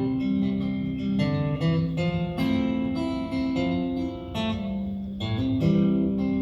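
An acoustic guitar strumming chords alone with no singing: an instrumental break between verses of a song.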